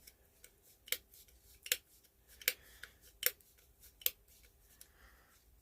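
Switch of a vintage Eveready flashlight being worked on and off over and over: a sharp click about every 0.8 seconds with fainter clicks between. The stiff switch is being loosened after a little oil.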